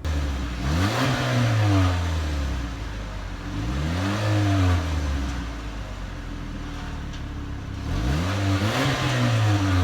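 Pontiac G6 engine revved three times through its freshly replaced exhaust manifold, catalytic converters and muffler. Each rev rises quickly and falls back to idle.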